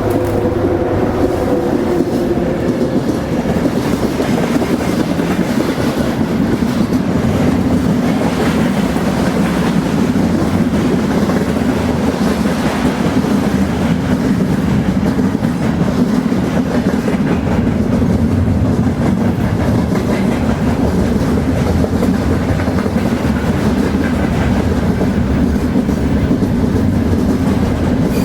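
Train rolling along the track, its wheels running over the rails in a steady, loud rumble. A few faint steady tones fade out in the first three seconds.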